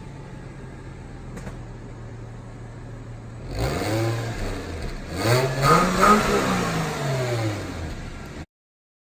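Flat-six engine of a 2009 Subaru Legacy 3.0R with its axle-back mufflers deleted, idling steadily and then revved twice: a short blip about halfway through, then a longer rev that climbs and falls back. The sound cuts off abruptly near the end.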